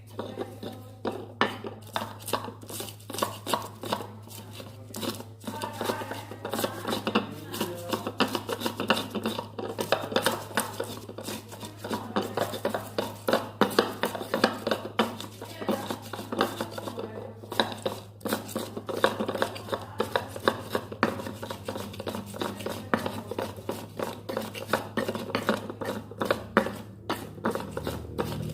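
Stone mortar and pestle (cobek and ulekan) grinding sambal ingredients with tomato, giving rapid, uneven knocking and scraping strokes, over a steady low hum.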